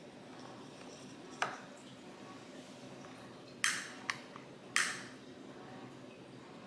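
Quiet room with a few short handling noises: a click about a second and a half in, then two brief scraping sounds about a second apart, with a faint tick between them.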